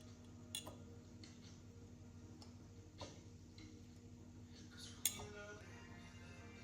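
Kitchenware being handled: a few light clicks and clinks over a faint steady hum, with one sharper clink about five seconds in.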